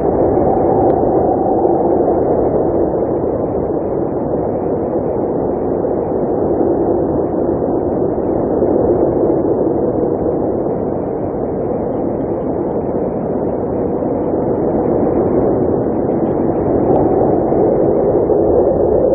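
Blizzard wind blowing steadily, a dense rushing noise with low tones that waver slowly in pitch.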